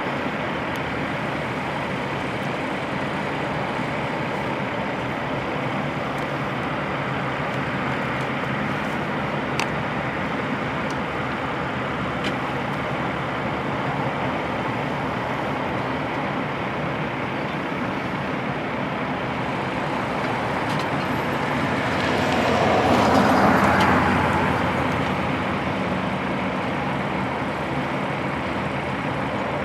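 Heavy truck diesel engines running steadily, with a louder swell that rises and falls over a few seconds about 23 seconds in.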